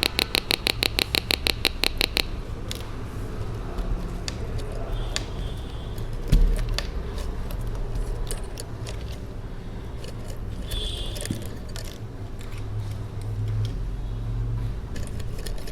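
Small speaker on a BC547/BC557 transistor oscillator circuit sounding a fast pulsed beep, about nine pulses a second, that cuts off about two seconds in. After that come light clicks and rattles of parts and tools being handled, with one knock about six seconds in.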